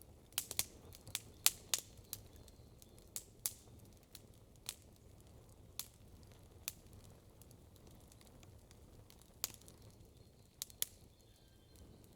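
Wood campfire crackling: irregular sharp pops and snaps, a quick cluster in the first two seconds and scattered single pops after that, over a low steady rumble.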